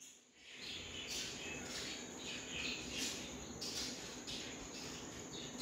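Faint, quick chirping of small birds, short high chirps about two to three a second, over a steady faint high-pitched tone.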